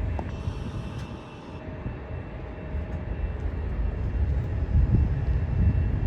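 Jet airliner engines rumbling low and steady, dipping about a second and a half in and then growing louder.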